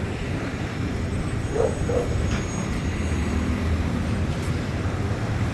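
Steady low rumble of road traffic and vehicle engines passing on a busy street, with two short squeaks about a second and a half in.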